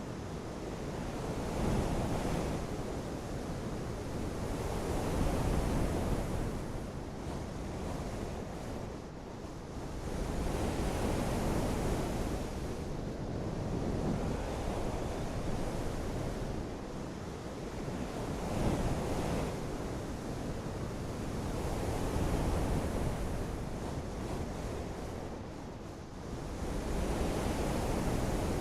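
Nature-sound ambience: a continuous rushing noise that swells and eases in slow surges every few seconds.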